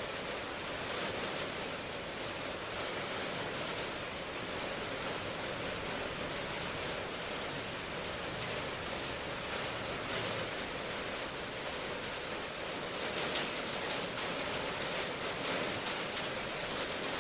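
Steady rain ambience: an even hiss of rainfall that swells slightly for a few seconds near the end.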